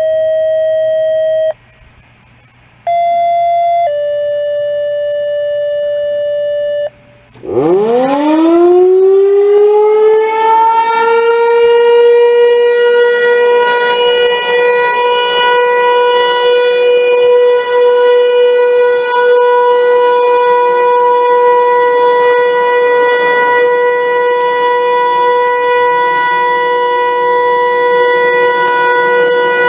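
Radio activation tones: a steady tone, a pause, then a two-tone sequence of a short higher tone and a longer lower one. About seven and a half seconds in, an outdoor warning siren winds up, rising in pitch, and then holds a loud steady wail.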